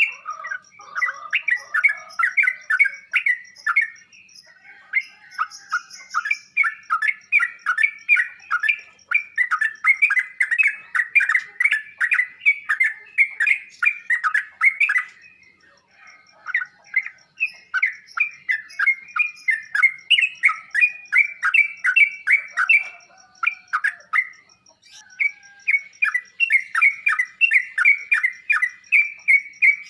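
Yellow-vented bulbul (trucuk) singing: long runs of quick, chattering chirps that break off briefly about 4, 16 and 24 seconds in.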